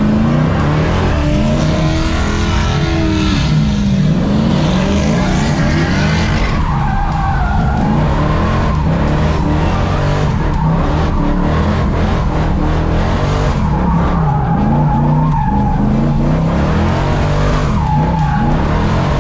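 Muscle-car engines revving, their pitch rising and falling, with tires squealing.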